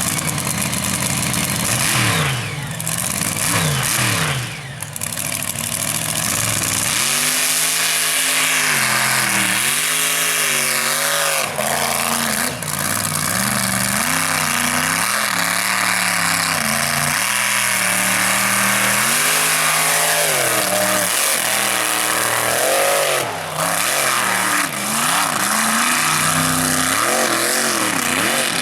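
Mega truck's big-block V8 engine revving hard in repeated surges, its pitch climbing and dropping every second or two, over a steady noise of spray and tyres.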